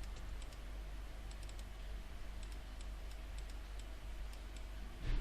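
Faint, irregular clicks of typing on a computer keyboard, over a steady low hum.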